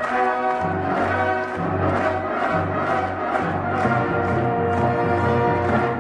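Live ensemble music: sustained melody notes over a bass line that moves to a new note about every second.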